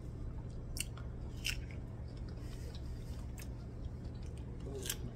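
A person chewing a bite of sour fruit with the mouth closed: a few short, wet mouth clicks over a steady low hum.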